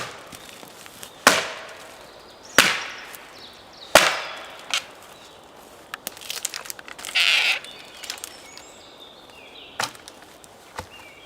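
A dry deadwood pole is struck hard against a standing tree trunk to break it into firewood lengths. There are four sharp cracking blows about a second and a half apart, then a short rustle and a few lighter knocks.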